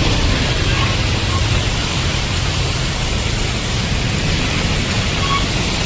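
Heavy rain pouring down, a loud steady hiss with a low rumble underneath.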